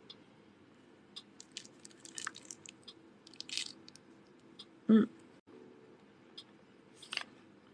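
A person biting and chewing juicy orange citrus segments: scattered soft wet smacks and clicks, with a short voiced sound about five seconds in.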